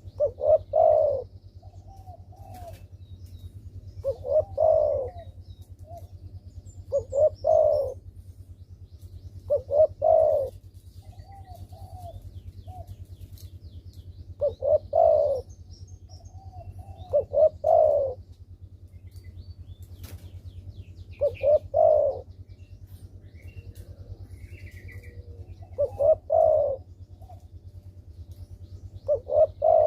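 Spotted dove (derkuku) cooing: a repeated phrase of two short notes and a longer coo, about every three seconds, with softer notes between. This is a lively calling bird used as a lure to set off quiet doves. A steady low hum runs beneath, with faint chirps of small birds.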